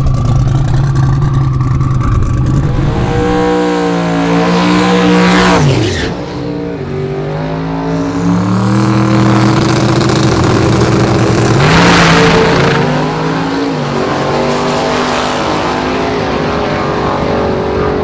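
Drag-racing engine at full throttle making a run down the strip. Its note climbs, then drops sharply as the vehicle passes about six seconds in, and a second loud pass comes near twelve seconds.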